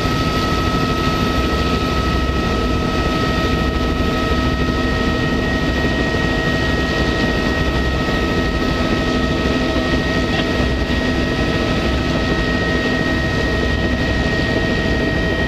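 Tour helicopter in flight: the turbine and rotor make a loud, steady drone with two steady high-pitched whines over it.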